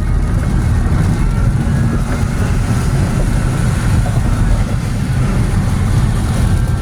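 Steady low rumble of a road vehicle on the move.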